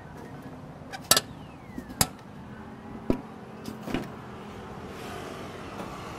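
Four sharp clicks and knocks, about a second apart, over a steady background noise.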